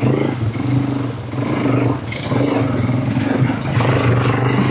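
Quad bike engine running under throttle, dipping briefly about two seconds in.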